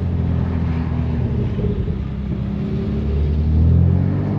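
Exhaust of a 2018 BMW M3 Competition's twin-turbo inline-six, running catless downpipes and an axle-back with its valves open, droning at low revs on the move. The revs rise a little about three seconds in, then ease off near the end.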